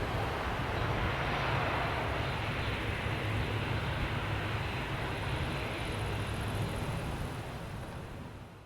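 Dornier 328's twin Pratt & Whitney Canada PW119B turboprop engines and propellers running at high power during takeoff, a steady sound that fades out near the end.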